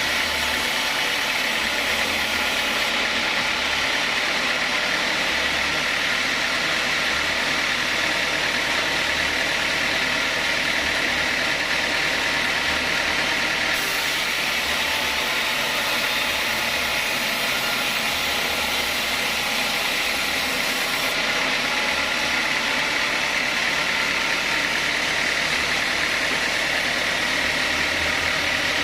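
Sawmill saw machinery running steadily, an even, unbroken mechanical noise.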